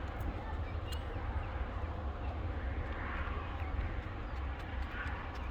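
Button quail giving a few faint, short calls over a steady low rumble, with a couple of sharp clicks near the start.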